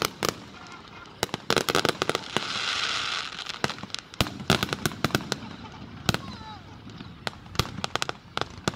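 Aerial fireworks shells bursting in a rapid, irregular string of sharp bangs, with a second of dense hissing crackle about two and a half seconds in.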